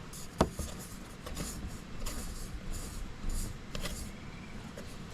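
A single sharp knock about half a second in, followed by a series of short rubbing and rustling sounds from hands handling something.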